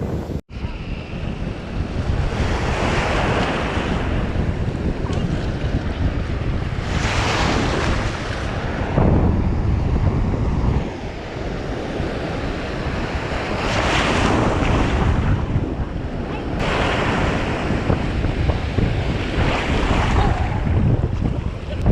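Ocean surf breaking on a beach, a wave washing in every few seconds, under strong wind buffeting the microphone.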